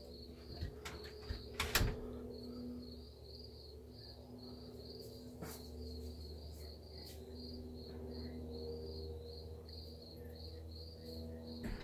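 A cricket chirping steadily in quick, even pulses, with a couple of sharp clicks in the first two seconds.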